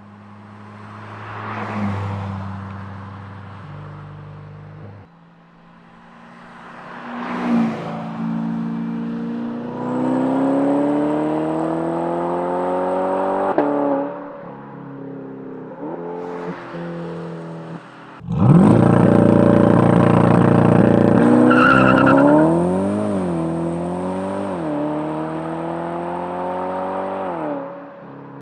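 C8 Corvette V8 through a titanium cat-back exhaust, heard from outside. Early on it swells past twice. From about 10 s the engine pitch climbs steadily under acceleration. About 18 s in it turns suddenly much louder, with a hard rev followed by several quick rev blips rising and falling.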